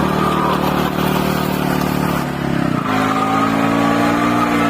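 Motorcycle engine running hard, with a short break in its note about two and a half seconds in, after which the revs climb steadily.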